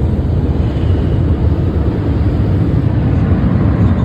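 Automatic car wash air dryers blowing hard on the car, a loud steady rush heard from inside the cabin.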